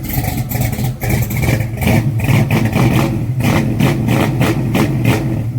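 Big-block V8 with a lumpy cam, revved from idle to clear it out: it runs loud and uneven, getting louder from about a second in.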